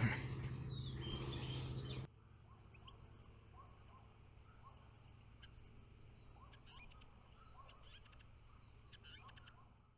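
Faint, scattered chirps and short calls of small songbirds. About two seconds in, the background hum drops off suddenly and only the chirps remain, with a slightly louder cluster near the end.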